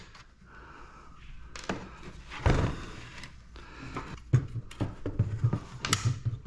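Scattered knocks and clicks of a computer power supply's metal case being handled and worked on to take it apart.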